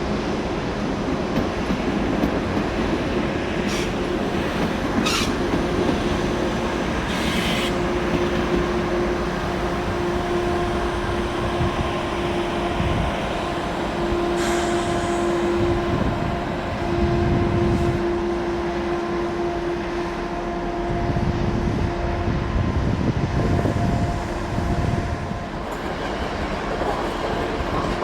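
A train running on the station tracks: a steady rumble with a held humming tone, and a few short sharp high-pitched squeaks in the first eight seconds.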